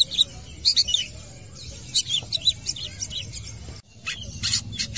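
Long-tailed shrike (cendet) singing: a rapid, varied run of short high chirps and whistled notes, broken off briefly just before four seconds in.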